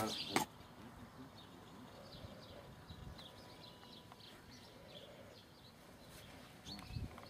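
Small birds chirping faintly and repeatedly over quiet outdoor background, with a few loud sharp noises in the first half-second.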